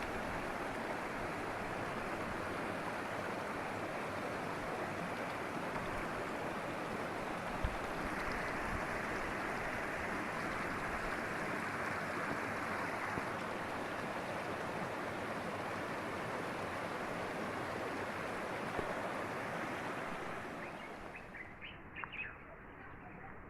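River water rushing steadily, fading down near the end, where a few bird chirps come through.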